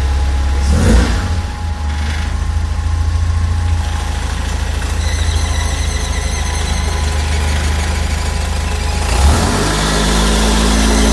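Fiat Uno Mille 1.0-litre four-cylinder engine idling with an unwanted mechanical noise that drops out when the clutch pedal is pressed and comes back when it is released. The change comes with a short thump about a second in, and the noise returns with another thump near the end.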